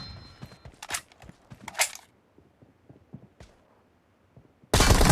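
Shooter video game sound effects: two sharp shots or impacts in the first two seconds over faint footstep-like ticks, then a near-quiet stretch. A sudden loud burst, such as gunfire, breaks in near the end.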